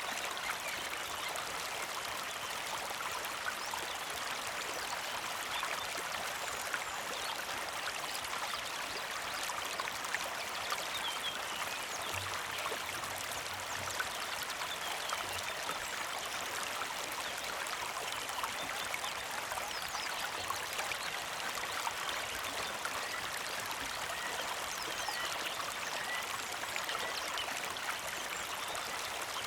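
Creek water flowing and trickling steadily, with small birds chirping over it; near the end one bird repeats a short chirp about once a second.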